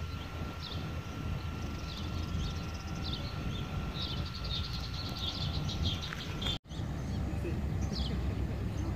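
Birds calling over and over, short falling chirps about once or twice a second, over a low steady rumble and a faint steady whine from the distant Cessna 208B Grand Caravan's turboprop. The sound drops out for an instant about two-thirds of the way through, and after that the whine is gone while the chirps and rumble go on.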